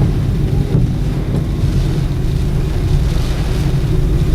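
Strong, gusty tropical-storm wind buffeting the microphone: a loud, irregular low rumble.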